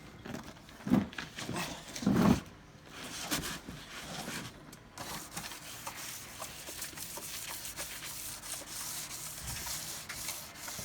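Wet-and-dry abrasive paper rubbed by hand over a car's plastic bumper, a continuous scraping hiss of many short strokes. Two louder thumps come about one and two seconds in.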